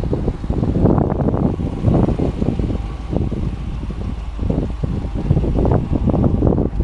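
Wind rumbling on the microphone, with irregular crunching steps on frozen snow.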